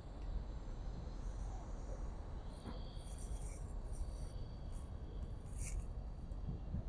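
Short, high, buzzy insect chirps in bursts, the main ones about halfway through, over a steady low outdoor rumble.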